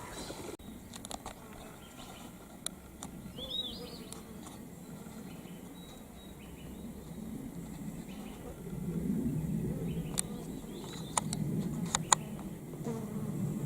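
Bird calls, a short falling chirp about three seconds in, over an insect, likely a fly, buzzing close by that grows louder in the second half, with scattered sharp clicks.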